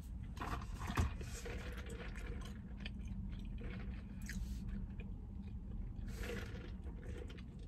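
A person chewing a mouthful of chicken sandwich close to the microphone: wet mouth clicks and small crunches throughout, with a sharper click about a second in.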